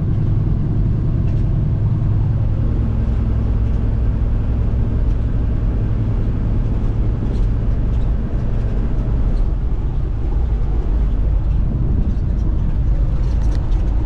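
Steady low drone of a semi truck's engine with road noise, heard from inside the cab while driving.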